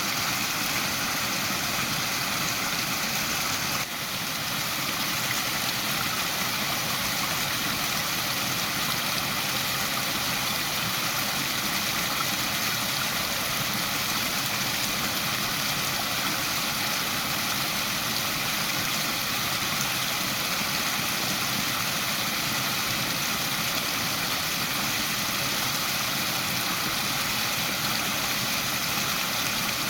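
Waterfall rushing steadily, with a brief dip in level about four seconds in.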